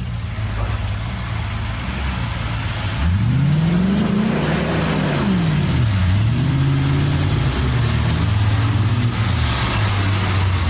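Motor vehicle engine revving: it runs steadily, then climbs sharply and falls back about three seconds in, and keeps rising and falling after that.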